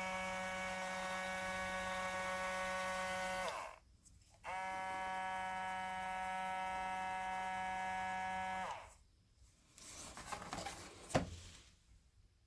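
Small battery-powered DC motor running with a steady buzzing hum. It is switched off, winding down in pitch, started again about a second later, and switched off again with the same winding-down, followed by light handling rustles and a sharp click.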